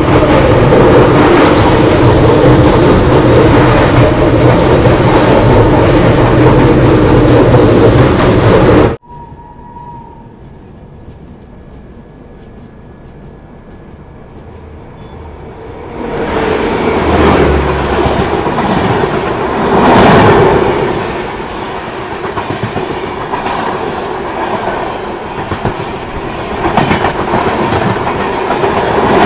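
Moving passenger train heard from its open doorway: a loud, steady rumble of wheels on track that cuts off suddenly about nine seconds in. After a quieter stretch, a train on the adjacent track passes close by in the second half, its coaches clattering over the rail joints.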